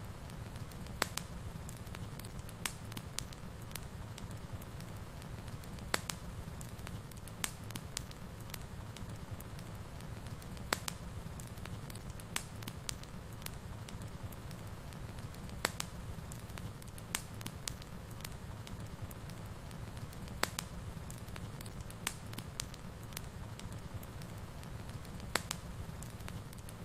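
Wood fire crackling in a fireplace: sharp, irregular pops and snaps, a few every second or two, over a steady low rumble.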